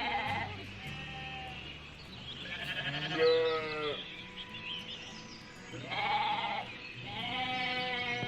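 Bleating from sheep or goats: four or five wavering calls of about a second each, the loudest about three seconds in.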